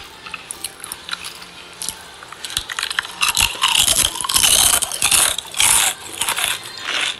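Crispy roast pig skin (lechon crackling) crunching as it is bitten and chewed: scattered sharp cracks at first, thickening into dense, loud crunching about three seconds in.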